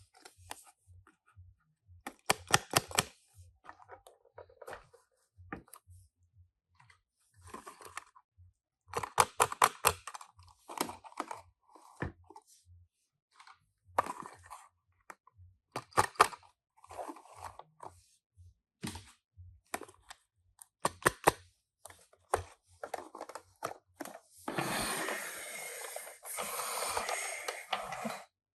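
Tomica die-cast toy cars and their cardboard boxes being handled: scattered sharp plastic and metal clicks and short crinkles. Near the end comes a few seconds of continuous rustling, tearing-like noise from the packaging.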